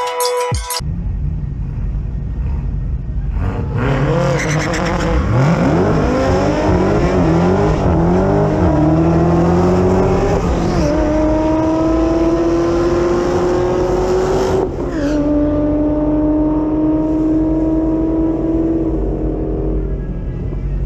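Supercharged 6.2-litre Hemi V8 of a Dodge Challenger SRT Hellcat doing a burnout: after a brief idle the revs swing up and down for several seconds, then hold high with the pitch climbing steadily, dropping once about two-thirds of the way through and climbing again before easing off near the end.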